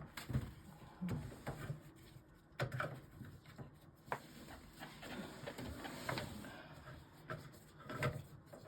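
Handling of a washing machine's drain pump filter just pulled out: scattered light knocks and clicks at irregular intervals.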